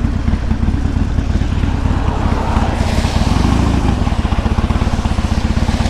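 Loud Harley-Davidson Sportster's V-twin engine running steadily under way, its exhaust pulsing evenly. A hiss rises alongside it from about halfway through.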